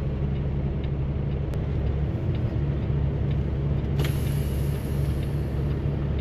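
Semi-truck diesel engine idling steadily. A high hiss of air starts suddenly about four seconds in and continues.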